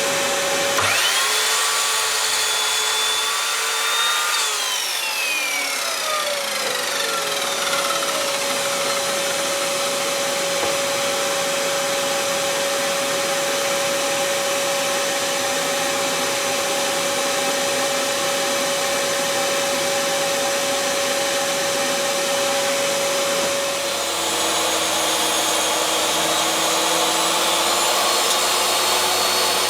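Electric table saw running with a steady motor whine, ripping wood down to thickness. It spins up near the start, starts again about 24 seconds in, and winds down near the end.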